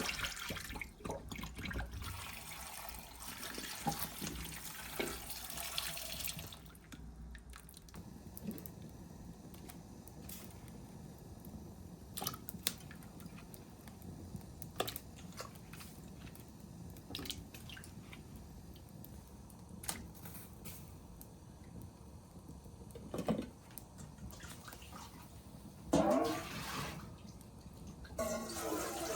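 Water running for a few seconds, then scattered small knocks and clinks, with a few louder splashy bursts near the end.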